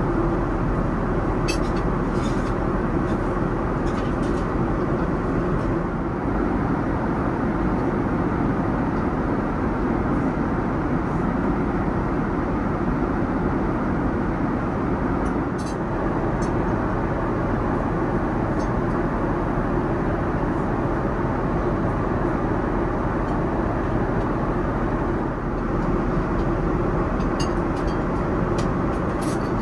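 Steady rumble of aircraft engines and air noise inside a Boeing 787-9 cabin, even throughout, with a few faint clicks.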